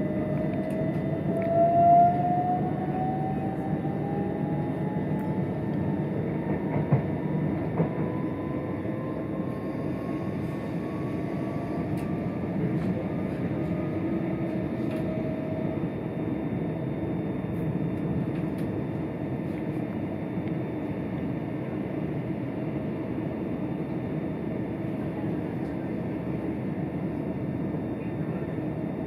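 Electric passenger train heard from inside the carriage: a steady running rumble, with a thin whine rising in pitch over the first dozen seconds as the train gathers speed. A couple of sharp knocks come about seven to eight seconds in.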